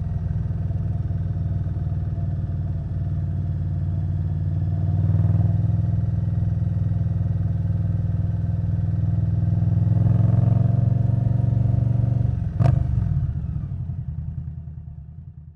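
Indian Scout Bobber Twenty's liquid-cooled V-twin through V&H Twin Slash exhaust, running at low speed with two light throttle blips. A sharp click comes about twelve and a half seconds in, after which the engine note slows into separate pulses and dies away as the engine is shut off.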